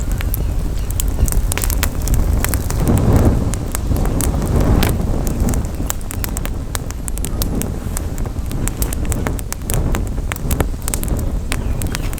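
Campfire crackling, with many sharp snaps from the burning wood over a low rumble of wind on the microphone that swells about three seconds in.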